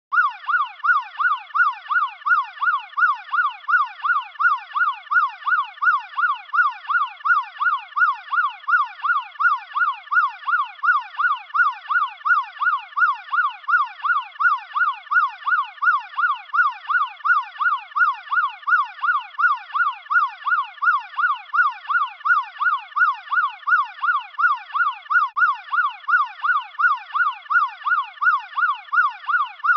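American police car siren in yelp mode: one tone sweeping rapidly up and down, about three times a second, without pause.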